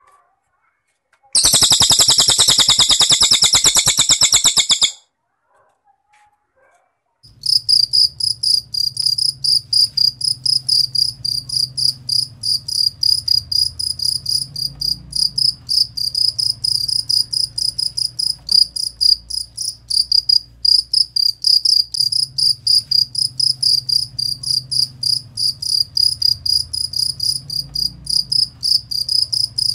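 A fast, high trill lasting about three and a half seconds, then after a short pause a cricket chirping on and on in quick, even pulses, with a faint low hum underneath.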